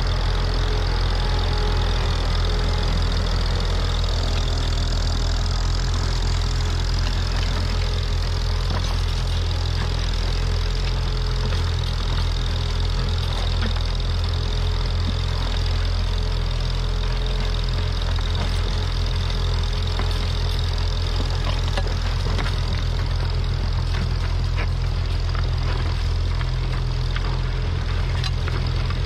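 Tractor engine running steadily, with a constant low engine tone throughout.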